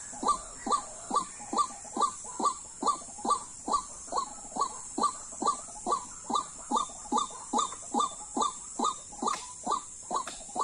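White-breasted waterhen (dahuk) calling: one short note repeated steadily, about two and a half a second, each note rising quickly in pitch. This is the call that trappers use to lure the bird.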